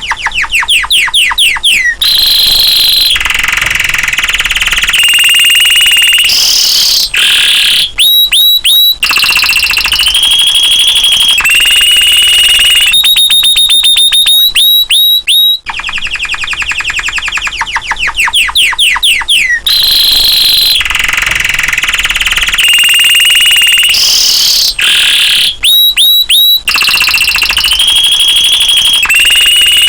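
Domestic canary singing loudly in full song: rolling trills of rapid repeated notes, sweeping whistles and held high tones, one phrase straight after another. The same stretch of song repeats about every fourteen seconds.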